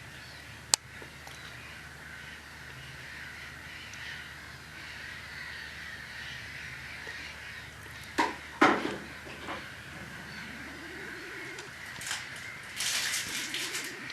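Crows cawing: two loud harsh caws about eight seconds in and a rattle of harsher calls near the end, over a steady background of distant bird calls. A single sharp click sounds under a second in.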